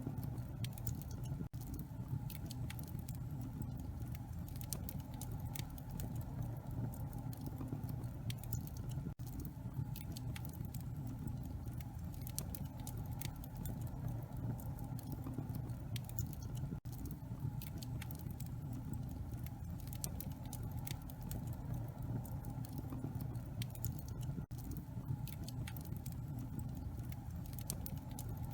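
Wood fire burning in a fireplace: irregular sharp crackles and pops over a steady low rumble, with a brief dip in level about every seven and a half seconds.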